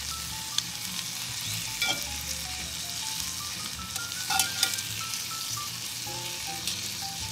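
Cubed ribeye steak sizzling as it sears in a hot cast-iron skillet, with metal tongs clicking against the pan a few times as the pieces are turned.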